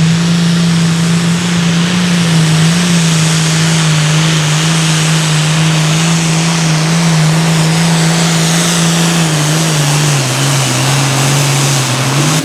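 Super Farm class pulling tractor's diesel engine running hard at full throttle down the track, holding a steady pitch. Near the end the pitch sags as the engine is pulled down under the sled's load.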